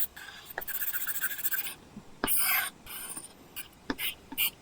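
Apple Pencil drawing on an iPad's paper-texture screen protector. It makes scratchy strokes, one long and several short, with a few sharp taps of the tip on the glass between them.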